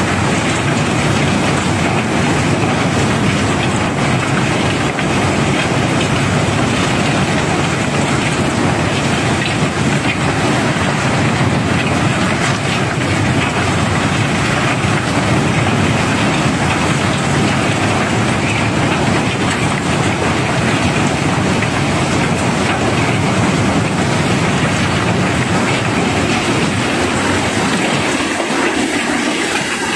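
River cobblestones pouring and rattling in a dense, steady stream as a barge is unloaded, over a steady low machinery drone. Near the end the low rumble drops away.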